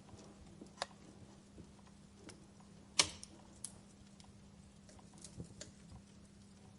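Wood fire crackling: irregular sharp pops and snaps from burning logs, the loudest about three seconds in, over a faint low steady hum.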